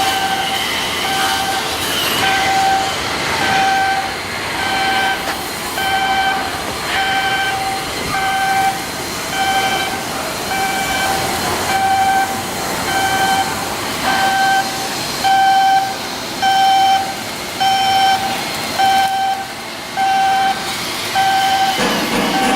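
Electronic warning beeper sounding a steady repeated beep about once a second, over the noise of yard machinery.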